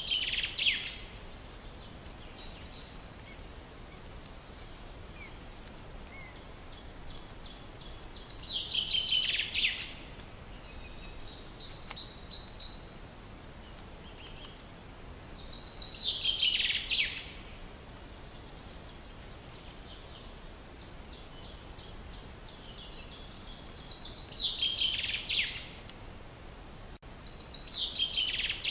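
A songbird sings the same short phrase over and over, a few seconds apart. Each phrase is a run of quick high notes that builds into a loud falling flourish. A steady outdoor hiss lies underneath.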